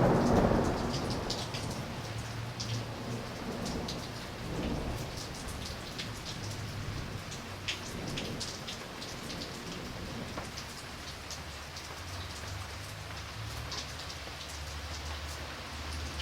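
Steady rain with scattered drips, as a thunder rumble fades away over the first couple of seconds; a low rumble of thunder continues faintly underneath.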